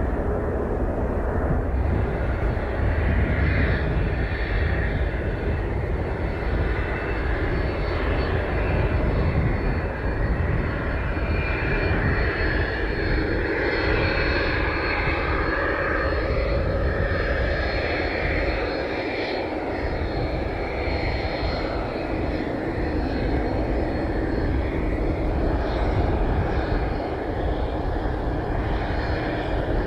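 Fixed-wing aircraft engines running loudly and steadily, with a deep rumble, a thin high whine and slowly shifting mid-range tones.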